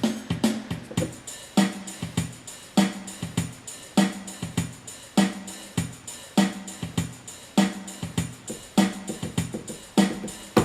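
Yamaha PSR-350 keyboard playing one of its 16-beat auto-accompaniment styles: a programmed drum-kit rhythm of kick, snare and hi-hat with a bass line, its strong beat coming back about every 1.2 seconds.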